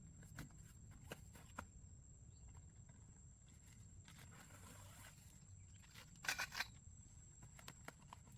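Quiet outdoor ambience with a low rumble and a faint steady high whine, a soft rustle, and a quick cluster of sharp clicks or knocks a little after six seconds.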